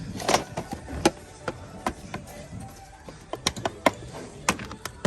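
Framed pictures knocking and clacking against one another as they are handled and flipped through on a shelf: a string of irregular sharp knocks and clicks.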